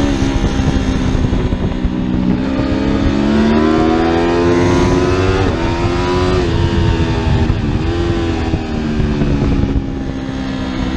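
Superbike engine running hard under acceleration, its pitch climbing steadily and dropping sharply twice at upshifts, once midway and again a couple of seconds later, then climbing again.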